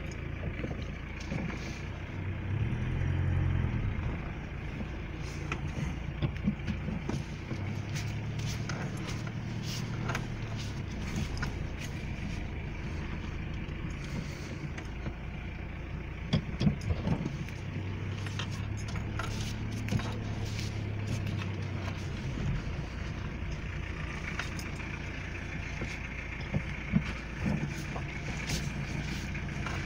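Peugeot 106's 1.4-litre four-cylinder diesel engine running, heard from inside the cabin as the car moves off slowly, its note rising briefly about two to four seconds in. Scattered clicks and knocks from the cabin sound over it.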